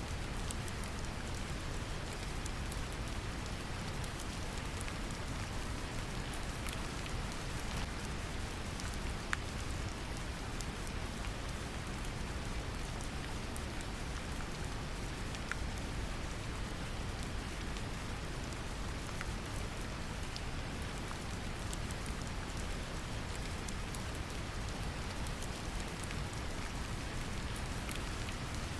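Steady brown noise, heaviest in the low end, mixed with rain falling on a surface, with scattered individual drop ticks.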